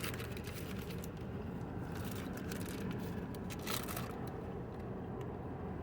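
Faint chewing, with a few soft mouth clicks, over a steady low background hum.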